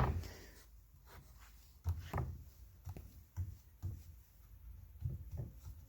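A wooden seat pan being handled on a work surface: a string of light, irregular knocks and some rubbing as it is pressed down at different points to check that it sits flat without rocking.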